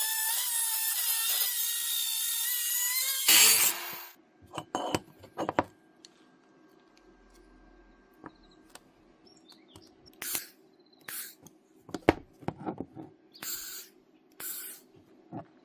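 Electric drill running at a steady high whine for about three seconds, then stopping. Scattered clicks and short clanks of metal parts being handled follow.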